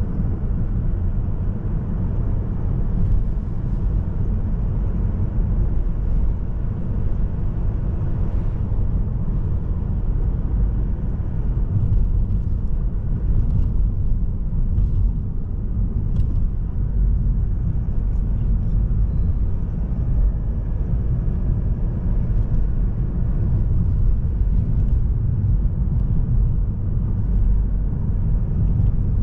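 Mazda3 sedan with a 1.8 diesel engine driving along at a steady pace: a continuous low road-and-engine rumble.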